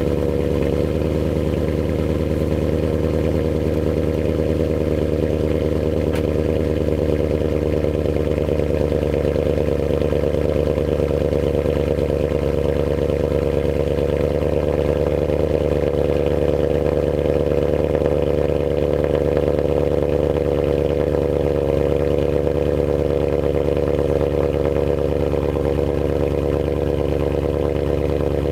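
BMW E39 M5's 4.9-litre V8 idling steadily after a cold start, heard through an Eisenmann Race exhaust with an X-pipe.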